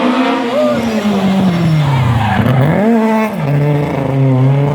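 Historic rally car's engine coming off the throttle, its pitch falling for about two seconds, a quick rev blip about halfway through as for a downshift, then holding at lower revs. Tyres squeal in the first second.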